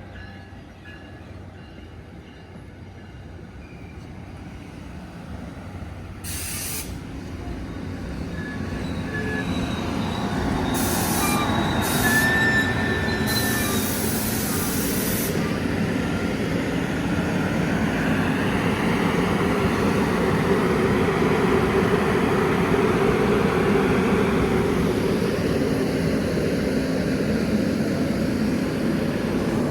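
NJ Transit train approaching and passing close by, its rumble growing steadily louder over the first ten seconds, then holding loud and steady. A few short bursts of hiss come through near the middle.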